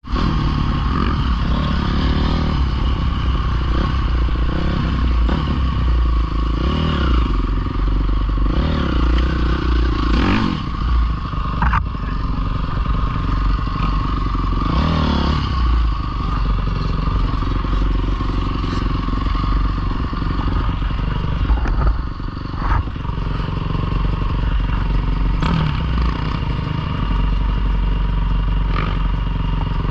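Dirt bike engine running continuously, its revs rising and falling again and again.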